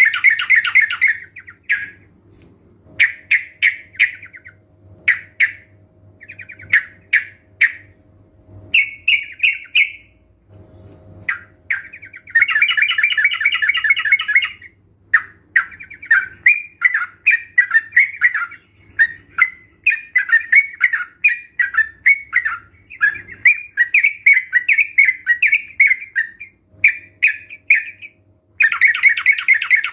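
Several yellow-vented bulbuls (trucukan) calling together in a lure recording. Long rattling bursts of about two seconds come at the start, about twelve seconds in and near the end, with short bubbly phrases and steady chatter in between.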